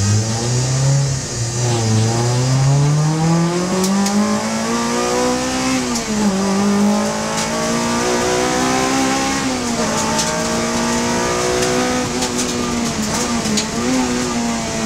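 Honda Civic Type R FD2 race car's 2.0-litre four-cylinder engine running hard on track. Its pitch climbs steadily for several seconds, drops sharply about six seconds in and again around ten seconds, and dips briefly near the end.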